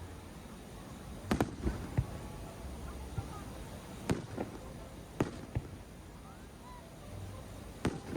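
Fireworks shells bursting: a run of sharp bangs at irregular intervals, some in quick pairs.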